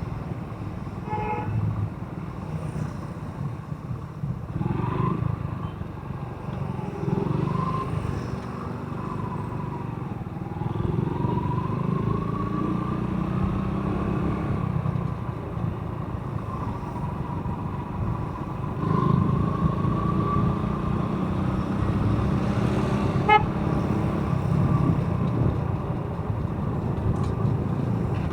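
Motorcycle engine running on the move with road and wind noise, its whine rising and falling with speed. Two short horn toots cut through, a faint one just after the start and a louder one late on.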